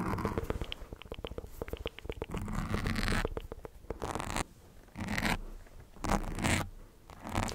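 Close-microphone ASMR mouth sounds: a fast run of wet mouth clicks for about two seconds, then several short breathy, hissing bursts about a second apart.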